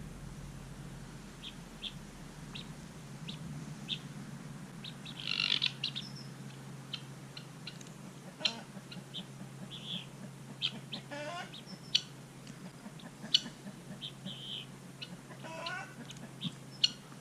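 Small birds chirping: short, scattered calls repeating irregularly, over a faint steady low hum.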